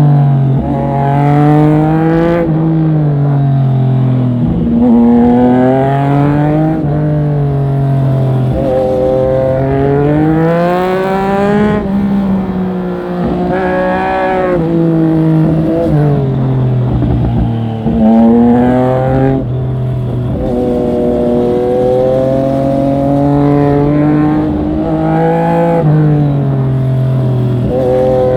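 Triumph Street Triple 765RS inline three-cylinder engine under hard riding. Its pitch climbs repeatedly and drops back at each gear change or lift of the throttle, several times over.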